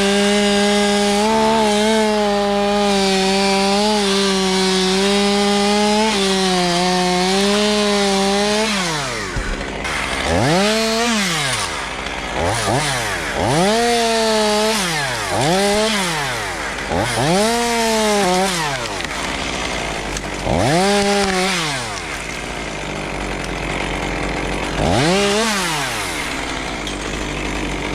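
Chainsaw running flat out for about eight seconds, its pitch wavering slightly as it cuts. Then it is revved in a string of short bursts, each rising and falling in pitch.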